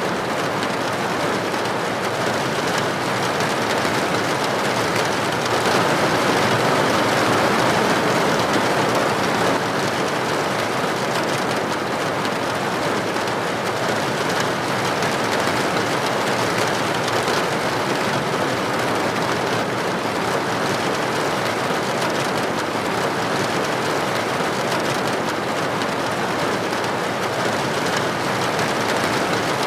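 Steady rain falling on a surface, an even hiss of drops that swells slightly about six seconds in.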